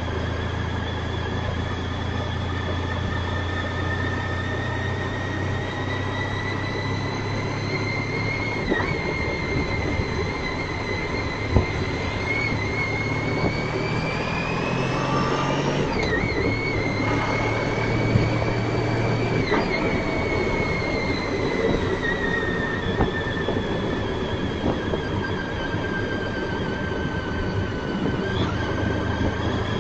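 Honda ST1300 Pan European motorcycle on the move, picked up by its mounted dash cam: steady engine and road noise with a high whine that slowly rises and falls in pitch, and a low hum that shifts several times.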